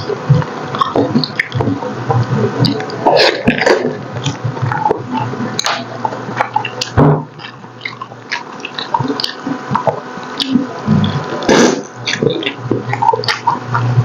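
Close-miked wet chewing and lip smacking of soft, sticky braised pork hock (paksiw na pata): irregular squelches and clicks, loud and close.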